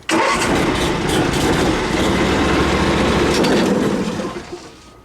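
Ferris riding mower running with its freshly fitted cutting blades spinning, a loud steady whoosh over the engine's hum. It starts suddenly and winds down about four seconds in. The owner hears a little draw on the engine still, but judges it better than before the new blades.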